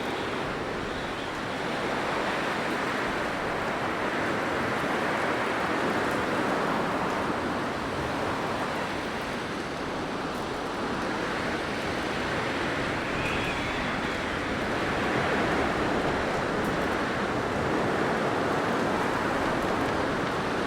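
Blizzard wind blowing steadily: a rushing noise that swells and eases slowly over several seconds. A faint high whistle comes through twice, at the start and about two-thirds of the way in.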